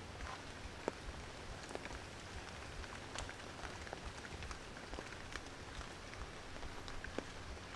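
Rain falling through a tree canopy: a steady hiss with scattered single drops landing close by as sharp ticks.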